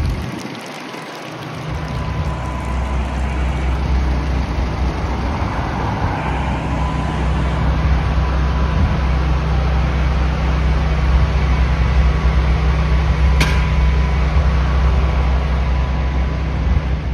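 CTA 'L' rapid-transit train running at steady speed: a loud, steady low rumble with a faint steady tone above it, building up over the first couple of seconds. One sharp click about thirteen seconds in.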